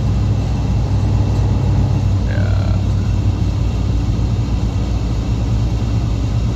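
Semi-truck's diesel engine and road noise heard inside the cab while driving, a steady low drone with wind and tyre noise above it. A brief gliding tone sounds about two and a half seconds in.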